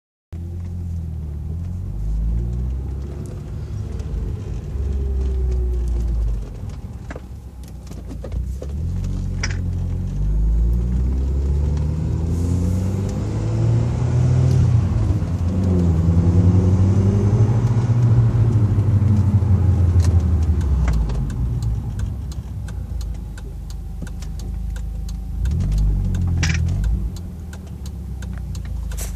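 2002 Audi TT 225 Quattro's turbocharged 1.8-litre four-cylinder engine pulling hard through the gears, its pitch climbing and dropping several times, loudest in the middle stretch. Above 15 psi of boost the car makes a whistle whose cause the owner has not found: not a boost leak up to 15 psi and not turbo shaft play.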